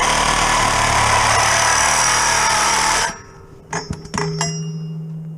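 A power tool runs loudly for about three seconds with a steady whine, then stops suddenly. A few sharp, ringing clinks follow.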